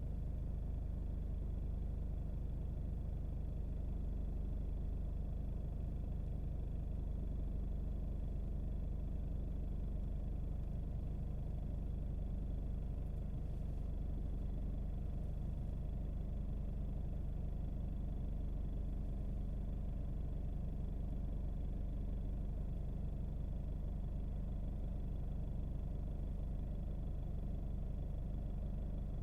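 A car driving: a steady low rumble of road and engine noise that holds even, with a faint thin high tone above it.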